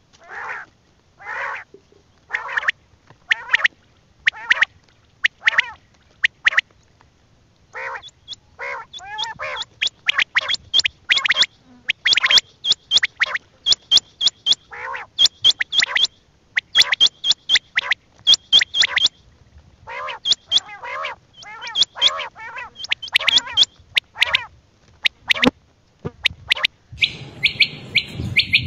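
Quail calling in short repeated notes: first about one call a second, then from about eight seconds in a quicker run of sharp, high-pitched notes, more than one bird overlapping.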